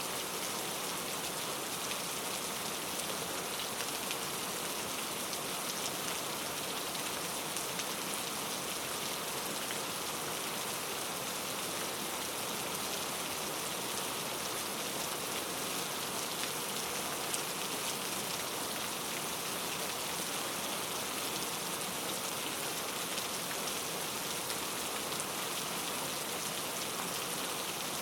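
Steady rain falling, an even hiss with many small drop ticks, unchanging in strength and without thunder.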